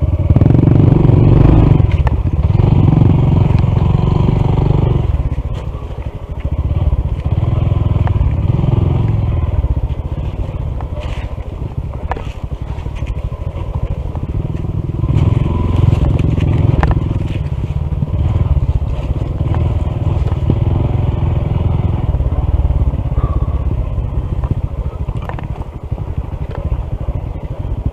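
Honda CT125's small single-cylinder engine running as the bike rides down a rocky dirt trail, its sound swelling and easing, with scattered knocks and clicks from the ride over rough ground.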